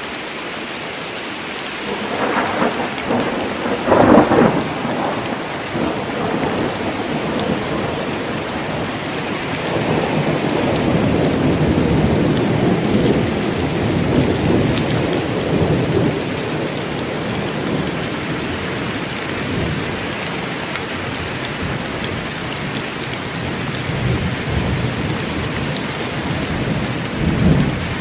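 Steady rain falling in a forest, with thunder. A rumble builds about two seconds in and peaks in a sharp crack about four seconds in. It rolls on until about halfway through, and a shorter peal comes near the end.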